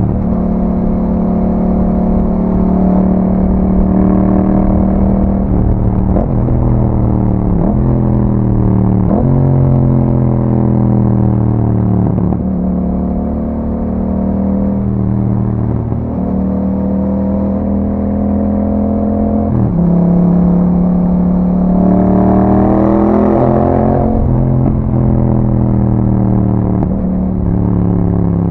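Yamaha MT-07 parallel-twin engine through an Akrapovic aftermarket exhaust, pulling through the gears while riding. The engine note climbs and drops with each gear change, with a short rev rise near the end.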